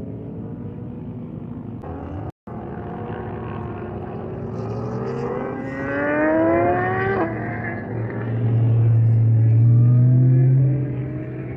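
Lamborghini engine being driven hard while drifting: revs climb steadily for several seconds and then drop off suddenly, followed by a loud steady low drone. A brief cut in the sound comes about two seconds in.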